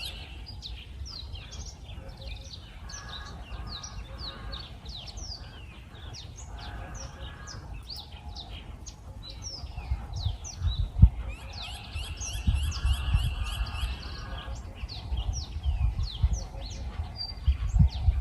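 A chorus of wild birds calling, with many short, quickly repeated down-slurred chirps and a buzzy trill partway through. Under the birds there is a low rumble and a few dull thumps, the loudest near the middle and at the end.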